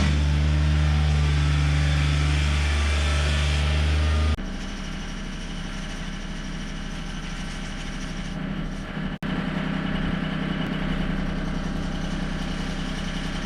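John Deere 955 compact tractor's diesel engine running steadily. About four seconds in the sound drops abruptly to a quieter, different engine note, with a very short gap about nine seconds in.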